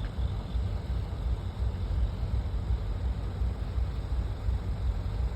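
Steady low rumble of a moving freight train.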